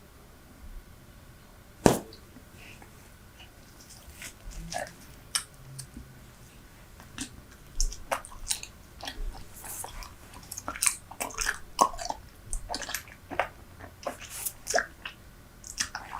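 Close-miked chewing of Super Bubble bubble gum: a dense run of wet clicks and smacks, with one loud sharp snap about two seconds in.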